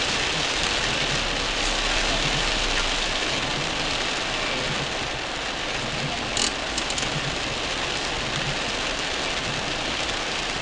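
Heavy rain hitting the car's roof and windshield, heard from inside the cabin, as a steady hiss over the low hum of the car's engine running in slow traffic. A brief click comes about six seconds in.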